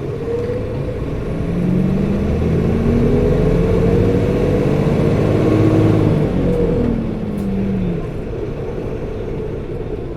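Diesel engine of a Toei city bus (Hino PKG-RA274KAN) running under acceleration. The pitch rises and the sound grows louder over the first few seconds, then the revs fall away about seven to eight seconds in as the bus eases off. The engine's coupling fan runs throughout, loud for the engine speed.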